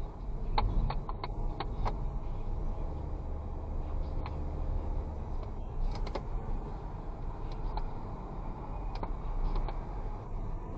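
Vehicle driving at night: engine and road noise make a steady low rumble. A quick run of sharp clicks or rattles comes in the first two seconds, and a few more are scattered through.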